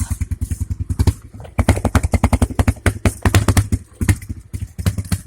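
Dirt bike engine chugging at low revs, a fast even train of firing pulses at about a dozen a second, faltering briefly twice.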